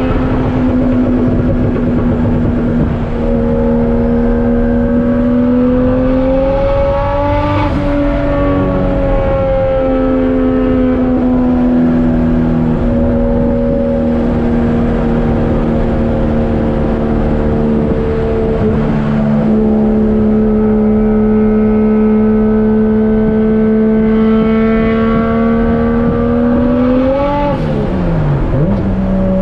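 Turbocharged 1JZ-GTE VVTi straight-six running under way, its pitch climbing slowly through long pulls and then falling sharply twice, about seven seconds in and near the end, as the revs drop. A brief hiss comes with each drop.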